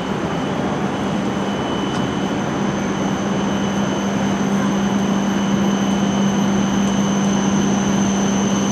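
Hokuriku Shinkansen train running at the station platform: a steady mechanical hum with a low drone and thin high-pitched tones, growing slightly louder.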